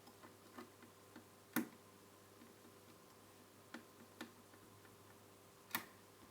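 Scattered light clicks and taps from handling the parts of a TV during reassembly, with two sharper, louder clicks about a second and a half in and near the end, over a faint steady hum.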